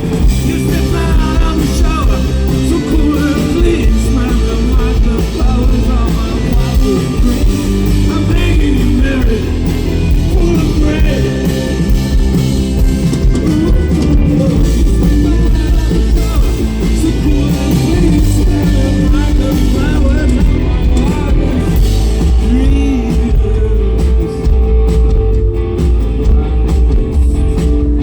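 Rock band playing loudly: electric guitar, bass and drums with a singer's voice, the singing dropping out near the end as the instruments carry on.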